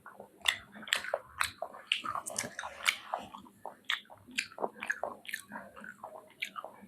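Close-up eating sounds: wet chewing, sucking and biting, with irregular clicks and smacks several times a second, as a person eats chicken feet in spicy curry.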